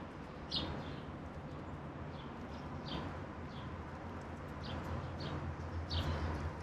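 Wild songbirds giving short, separate chirps, about eight scattered through a few seconds, over a steady low rumble.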